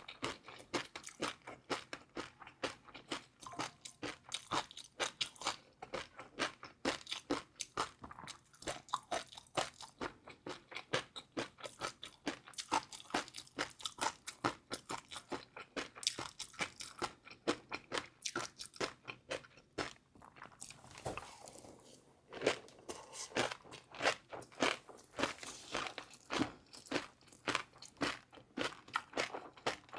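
Close-miked chewing of crunchy food: a fast, steady run of crisp crunches, with a short pause about two-thirds of the way through before the chewing picks up again, a little louder.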